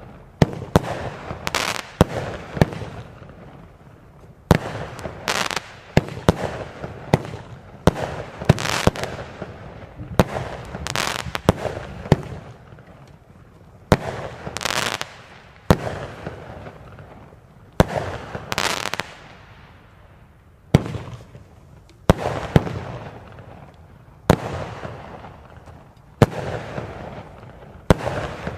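Vulcan Fireworks Soul Crushers multi-shot firework cake firing shot after shot, about one every two seconds. Each shot is a sharp bang followed by a fading hiss of the burst.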